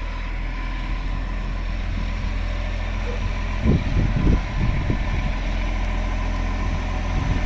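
Garbage truck's diesel engine idling steadily, with a few short low thumps about four seconds in.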